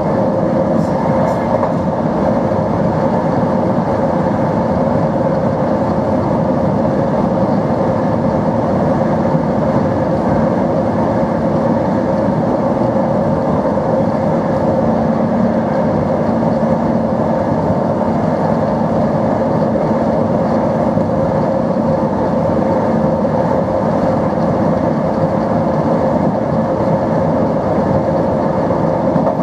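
SNCB AM80 'Break' electric multiple unit running steadily: a constant motor hum with a steady whine, unchanging in pitch or level.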